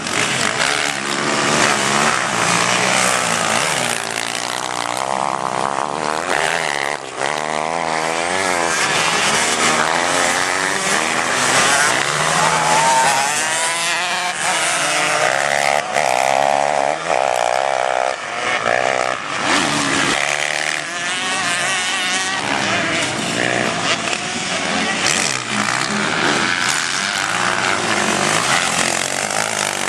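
Several racing motorcycles running at high revs around a track, their engine notes rising and falling in pitch as they pass and change gear, with more than one bike heard at once.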